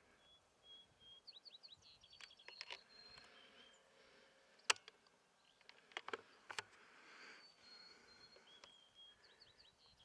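Faint songbird calls: short high whistled notes and quick runs of chirps that repeat at intervals. Several sharp clicks cut in, the loudest about halfway through.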